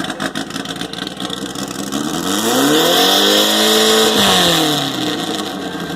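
Volkswagen bus engine revved hard for a decibel-meter reading: after a couple of seconds of rough running it climbs in pitch, holds high and loud for about two seconds, then drops back toward idle.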